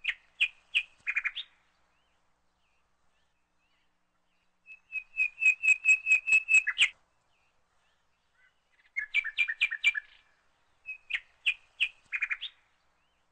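A songbird singing in four phrases of quick high chirps separated by pauses, with a fast trill in the middle.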